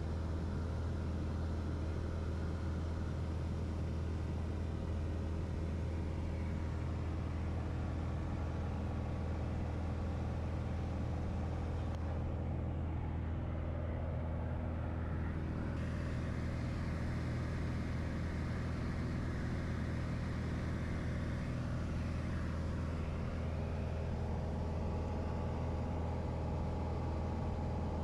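Piper light aircraft's piston engine and propeller droning steadily in flight, heard from inside the cockpit.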